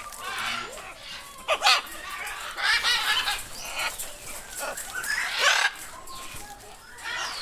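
Parrots squawking, a run of harsh calls coming in bursts with short pauses between.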